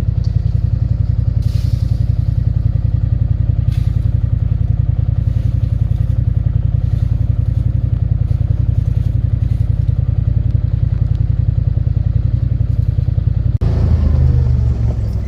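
A motor vehicle's engine running steadily while driving, a low rumble with a fast, even pulse. The sound shifts abruptly near the end.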